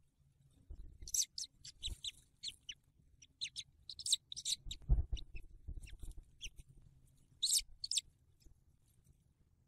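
Bird calls: clusters of short, high-pitched chirps in quick runs, with a dull low thump about halfway through.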